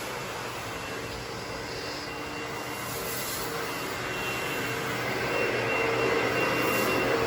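A motor-driven machine running steadily: a hum with a high steady whine over a rushing hiss, growing louder about five seconds in.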